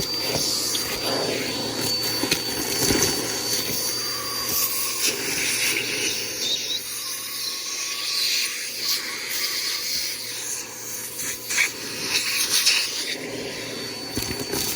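Bissell PowerForce Helix upright vacuum running steadily as it is pushed, a motor hum and airflow hiss with a few scattered clicks.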